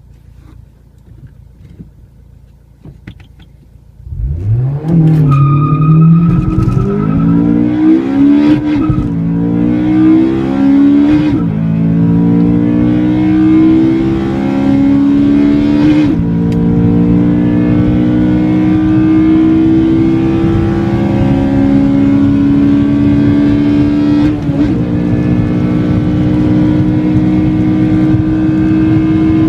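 Modified Honda Civic Si four-cylinder with Invidia header and Q300 exhaust and Skunk2 cams, idling quietly, then launched hard about four seconds in. It revs up through the gears with a sharp pitch drop at each of about five upshifts, and the pitch climbs ever more slowly in the top gears.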